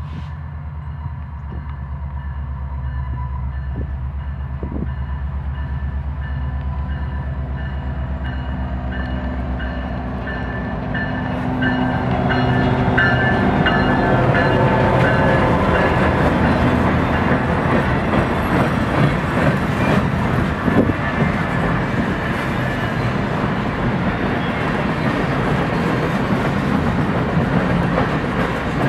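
A Canadian Pacific GP20C-ECO diesel locomotive approaches with a steady low engine throb that grows louder and passes close about twelve seconds in. Boxcars then roll by with a continuous rumble of wheels on rail.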